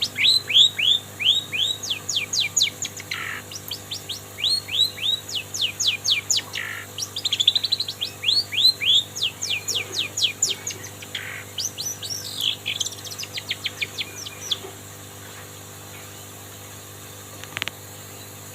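Long-tailed shrike (cendet) singing a mimicked song: fast runs of short, sharply falling chirps, packed into trills in places, imitating the calls of other birds such as the lovebird. The song stops near the end, followed by a single faint click.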